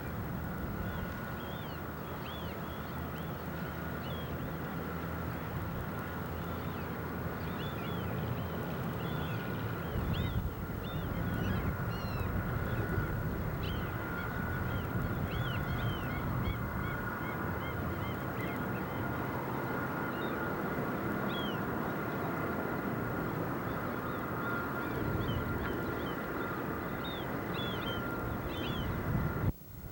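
A flock of birds calling: many short, quick calls overlapping through the whole stretch, over a steady low rumble and a thin steady hum. The sound drops out abruptly near the end.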